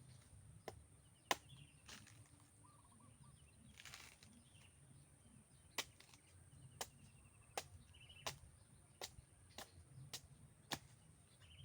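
A series of sharp clicks or knocks over a quiet outdoor background. A couple come early, then they repeat about once or twice a second from halfway through. Faint bird chirps can be heard between them.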